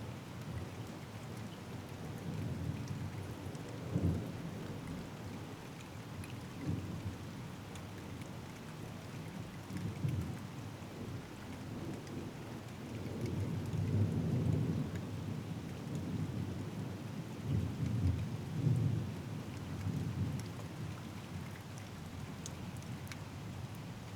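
Thunder rumbling repeatedly over steady rain, in several rolling swells, the longest and loudest through the middle and second half.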